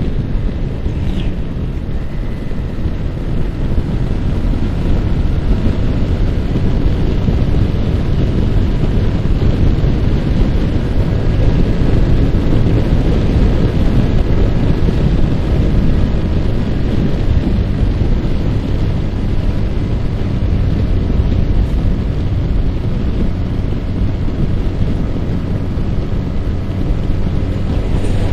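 Wind buffeting the microphone while riding a Yamaha R15 motorcycle at a steady speed, with the bike's single-cylinder four-stroke engine running underneath the wind noise.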